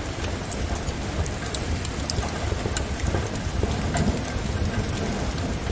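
Steady rain with a low rumble underneath, mixed with the sharp, irregular pops and crackles of a wood fire burning.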